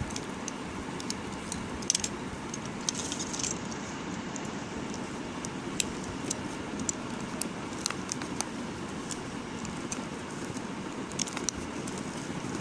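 A knife cutting and scraping bar soap: scattered crisp clicks and crackles, some in quick clusters, over a steady low background hum.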